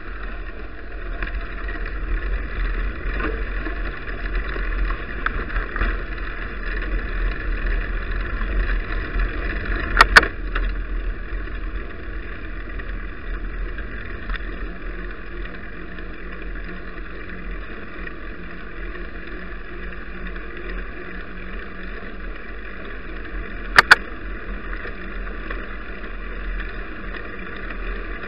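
Steady wind and rolling noise from a bicycle ride picked up by an action camera mounted on the bike, with a low rumble underneath. Two sharp knocks stand out, about ten seconds in and again some fourteen seconds later.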